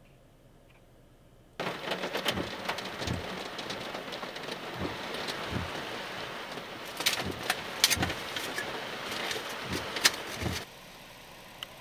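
Heavy rain pouring down, with many sharp taps of drops striking close by. It starts suddenly about a second and a half in, after near quiet, and cuts off shortly before the end, leaving a faint steady hiss.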